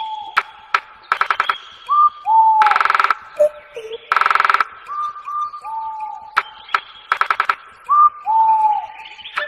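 A bird calling in a repeated phrase: short clear whistled notes, some sliding down in pitch, alternating with loud harsh rattling calls about half a second long.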